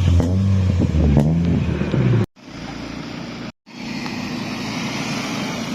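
A car engine being revved, its pitch climbing and falling for the first two seconds. The sound then cuts out twice briefly, and after that an engine runs more steadily and quietly.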